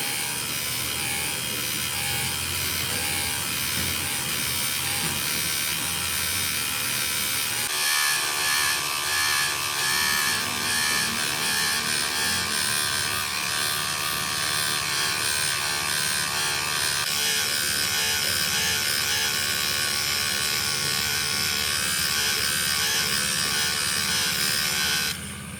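Steady buzzing and whirring of a running machine or power tool motor, changing in tone about eight seconds in and dipping briefly near the end.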